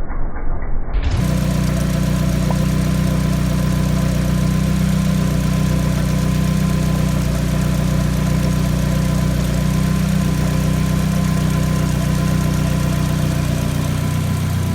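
About a second in, a muffled rhythmic ticking cuts abruptly to a Nissan SR20DET turbocharged four-cylinder engine idling steadily. The engine is running to burp air out of the coolant system.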